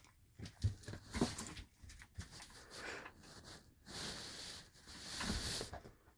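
Soft scattered knocks and rustles as a young vervet monkey moves about and plays, with a couple of breathy hissing noises about four and five seconds in.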